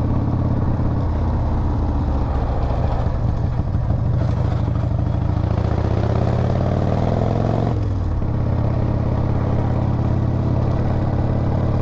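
Harley-Davidson V-twin engine running under way. Its pitch climbs for a few seconds as it accelerates, then drops suddenly about eight seconds in at a gear change and runs steady again.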